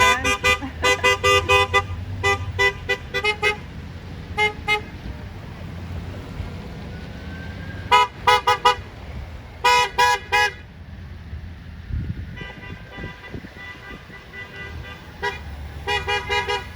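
Vehicle horns honking in quick series of short toots, with a longer, fainter horn note in the middle, over the low rumble of passing engines.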